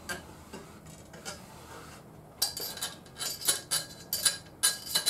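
Small metal parts clinking and rattling against each other as they are handled, with a few light taps at first and then a quick run of ringing metallic clinks from about two seconds in.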